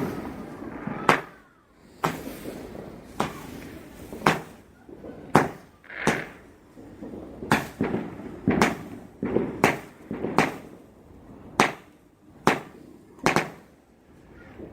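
Display fireworks bursting overhead: an irregular run of sharp bangs, about one a second, each followed by a short rumbling echo.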